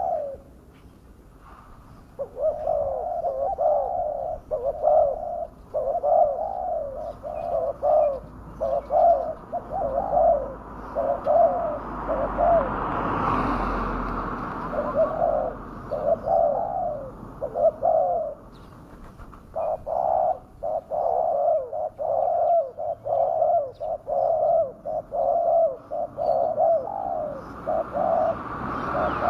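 Spotted dove (tekukur) cooing, a call used to lure wild doves in. The coos come in quick repeated phrases, two long runs broken by a short pause about 18 seconds in. Midway, a rushing noise swells and fades under the calls.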